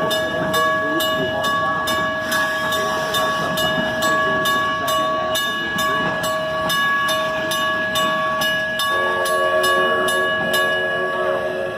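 Wigwag crossing signal's bell ringing steadily, about two to three strokes a second, over the rumble of a passing train. About nine seconds in, the steam locomotive's whistle starts sounding a steady chord.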